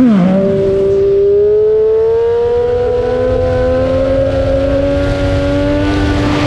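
Motorcycle engine heard from on the bike: a quick rev that drops back right at the start, then a steady pull with the engine note slowly rising, over wind rush.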